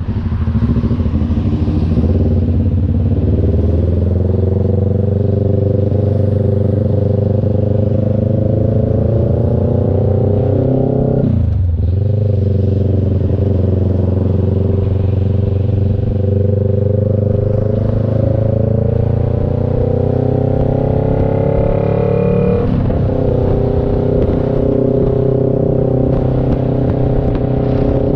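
CF Moto NK400's parallel-twin engine pulling under steady acceleration, its note climbing slowly through a gear. The pitch drops briefly at gear changes, about eleven seconds in and again about twenty-three seconds in, then holds steady near the end.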